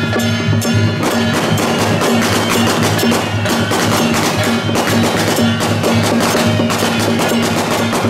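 Procession music with dense, fast percussion strikes over a steady low drone, thickening about a second in.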